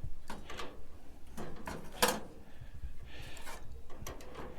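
Scattered short metallic clicks and knocks of hand tools and gas-grill parts being handled while a fitting is worked loose, the loudest about two seconds in.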